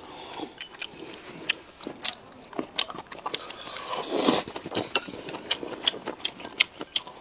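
Close-up eating sounds: chewing and lip smacks with many small irregular clicks, and a brief louder mouth noise about four seconds in.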